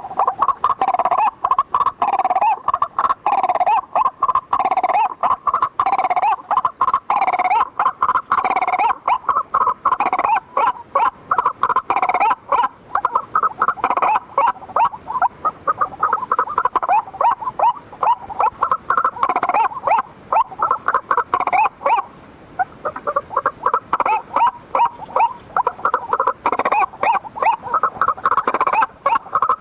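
White-breasted waterhen (ruak-ruak) lure call: a long run of loud, rapidly repeated calls, with only short breaks.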